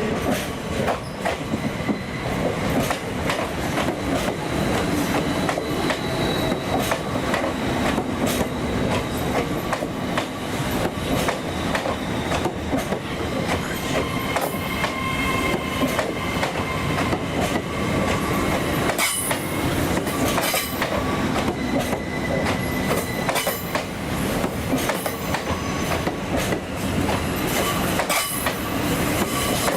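Train wheels rolling over rail joints and points, with a steady run of clicks and a thin, high wheel squeal over them.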